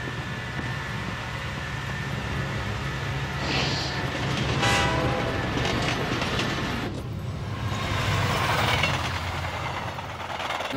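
Bullet train running at speed: a steady rumble and rush, with a brief pitched horn-like tone about five seconds in.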